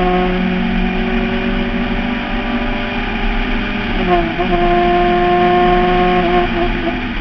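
Fiat 124 race car's twin-cam four-cylinder engine running hard at steady high revs, heard from the open cockpit along with wind and road noise. The engine note dips briefly and picks up again about four seconds in.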